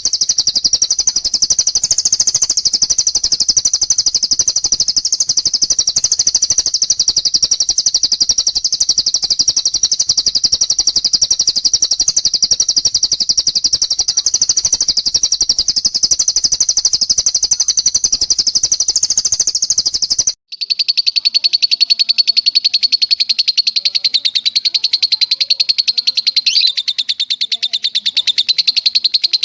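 Recorded songbird song: a very fast, high-pitched trill held without a break for about twenty seconds, then a sudden cut and a slightly lower rapid trill that carries on to the end.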